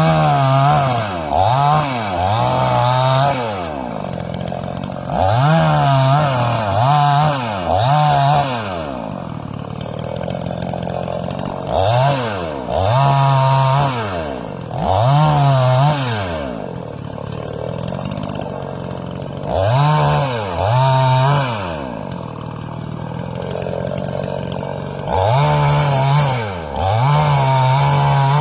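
Tengchang 45cc two-stroke chainsaw revved again and again in about a dozen short bursts. Each burst rises to full throttle, holds for about a second, then drops back to idle.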